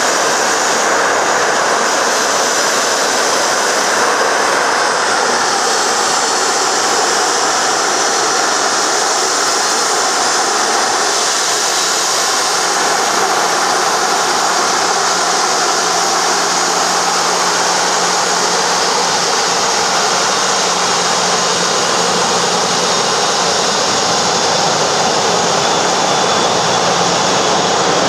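Jet aircraft engine running steadily, a loud even noise with a high whine on top. A faint low hum joins about halfway through.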